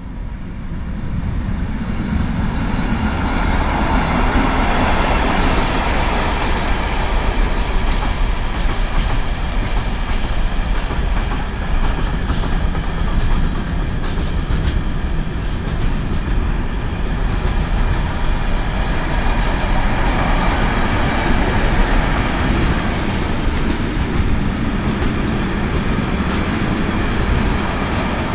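Container freight train passing close by behind a Class 189 electric locomotive: a rumble that gets louder over the first few seconds as the locomotive goes by, then the loaded container wagons rolling past steadily, with wheels clicking and clattering over the rails.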